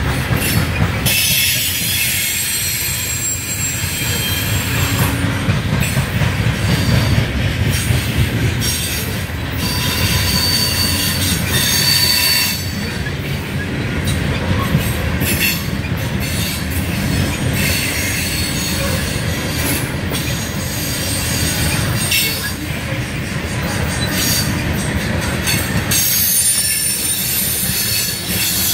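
Loaded-line freight train of covered hopper cars rolling past at close range: a steady rumble of steel wheels on rail with sharp clicks from the wheels and joints, and thin metallic wheel squeals now and then, clearest around the middle.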